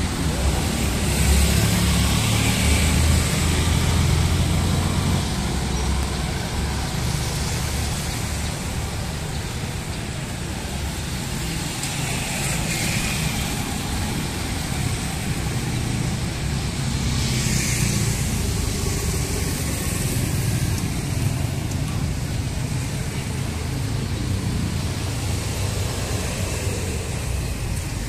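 City road traffic: a steady rumble of engines and tyres, with several vehicles passing close by.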